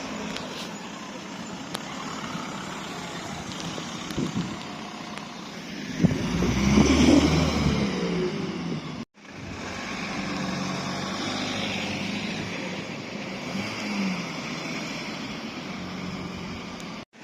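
Car engines at a street car meet over steady outdoor street noise. A car gets louder for a few seconds about six seconds in, its engine the loudest sound, then fades. The sound cuts out abruptly about nine seconds in and again near the end.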